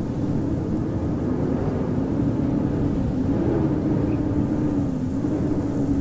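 Howling blizzard wind: a steady low rush with a howling tone that slowly wavers up and down in pitch.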